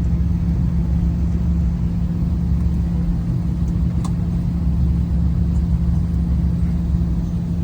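Steady low rumble inside a jet airliner's cabin as it taxis after landing, with a constant low hum from the engines and cabin air. A faint click about four seconds in.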